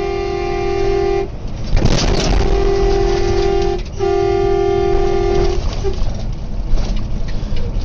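A vehicle horn blaring in long held blasts, broken about two seconds in by a loud crashing noise; the horn sounds twice more and stops a little past halfway, leaving road noise.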